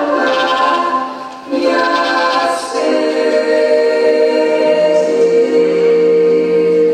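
Choir singing a cappella in several parts, with a short break between phrases about a second and a half in, then a long held chord that ends near the end.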